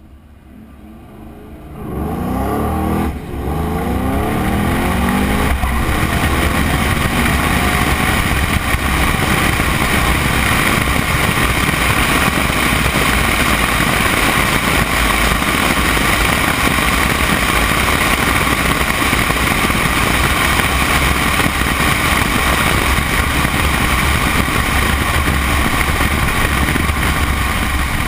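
2013 Shelby GT500's supercharged 5.8-litre V8 launching hard about two seconds in and revving up through the gears, with a brief dip at a shift about three seconds in, heard from a camera mounted outside the car. The rest is a steady loud rush of wind on the microphone over the engine as the car runs at speed.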